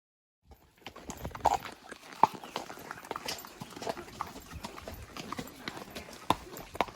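Hoofbeats of a spotted saddle horse, an uneven run of hoof strikes that starts about half a second in.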